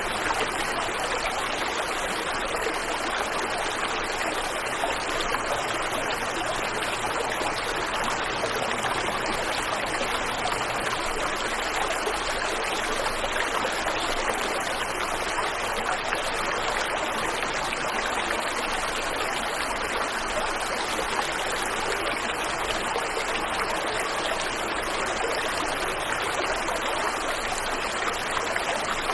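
Waterfall and stream water rushing steadily over rocks, an even splashing hiss with no breaks.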